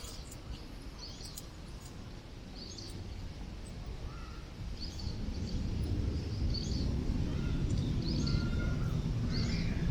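Wind rumbling on the microphone, growing louder about halfway through, with birds calling over it in short repeated calls.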